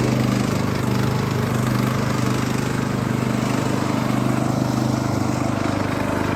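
Briggs & Stratton engine of a Craftsman riding lawn mower running steadily at speed, a constant engine drone.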